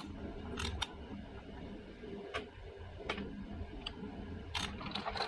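Torque wrench clicking as flywheel bolts are tightened in stages: short, sharp clicks at irregular intervals, roughly one or two a second, over a steady low hum.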